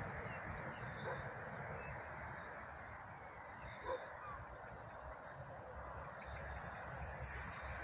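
Open-air ambience: a steady hiss with a low fluttering rumble, and a few short bird calls, the clearest about four seconds in.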